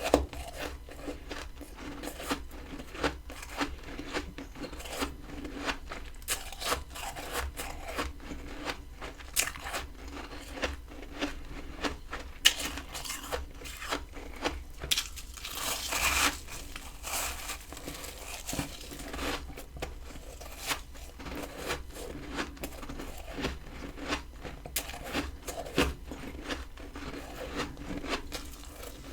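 Freezer frost ice being bitten and chewed, with sharp crunches every second or so and a longer crunching stretch a little past halfway.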